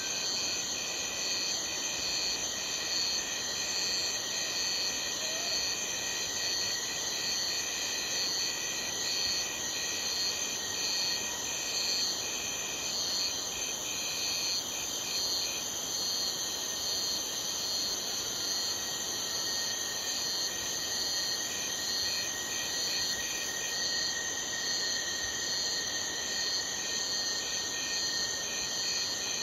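Chorus of night crickets: several insects calling at once at different high pitches. Some trill steadily while others chirp in rapid repeated pulses, over a soft background hiss.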